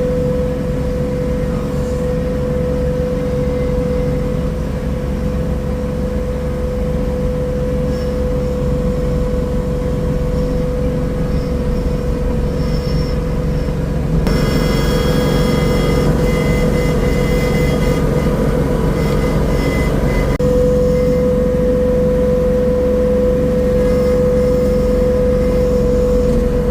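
Engine of a garden tiller running steadily while tilling, with a steady whine. About 14 seconds in, the sound turns brighter and harsher for several seconds, then settles back near 20 seconds.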